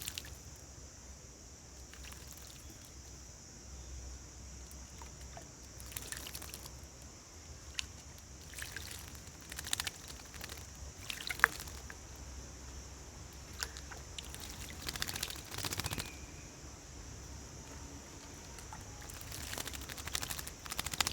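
A bird bathing in shallow water, splashing in short bursts several times over, with a steady high hiss underneath.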